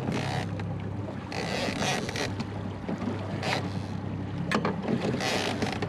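Outboard motor of a small jon boat running steadily at low speed, with several short bursts of water splashing and wind rushing over the microphone.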